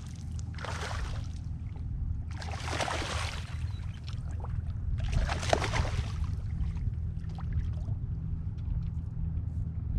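Water splashing in several bursts of about a second each beside a kayak, as a hooked smallmouth bass thrashes at the surface while being landed, over a steady low rumble.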